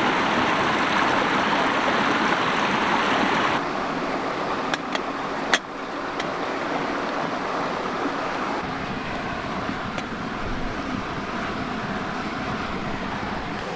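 Steady rush of a mountain creek, dropping a little in level about three and a half seconds in, with a few sharp clicks around five seconds.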